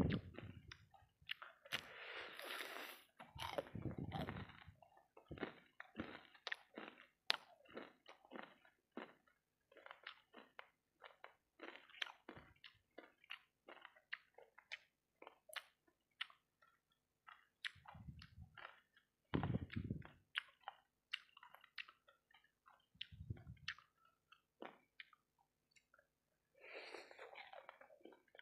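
Close-up chewing and biting of sauce-coated fried rice balls, with irregular crunches and wet mouth clicks. A few dull low thumps come about two-thirds of the way in.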